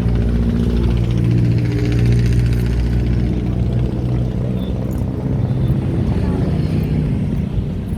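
A large engine running steadily at close range, a low rumbling hum with a fainter rattly hiss above it.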